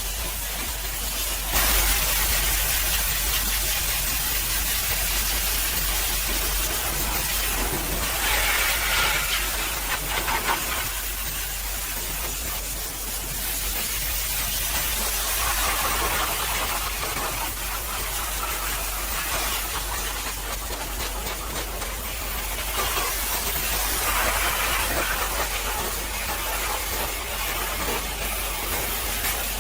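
High-pressure washer jet spraying water onto a truck: a continuous hiss that jumps louder about a second and a half in, then swells and eases as the jet moves over the surface.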